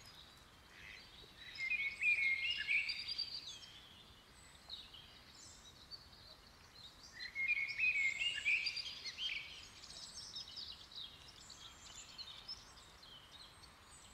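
Songbirds singing: two louder warbling phrases several seconds apart, with scattered chirps between them, over a faint steady outdoor hiss.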